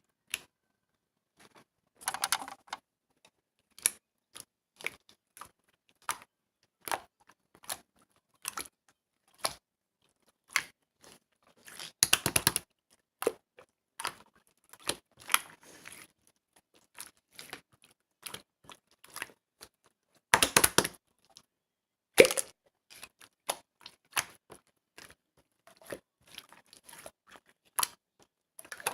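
Clear slime worked by hand, giving irregular sticky clicks and pops about once a second, with a few longer, louder crackling squishes.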